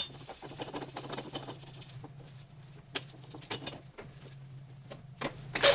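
Small metal clicks and taps of a bearing race puller being worked on a seized inner bearing race on a motorcycle swing-arm axle, over a low steady hum. Near the end there is a loud ringing metal clank.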